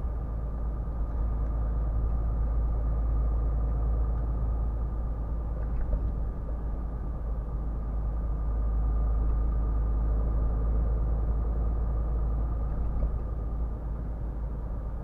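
Scania R450 truck driving at a steady speed: a deep, even rumble of the engine and road, with a thin steady whine over it.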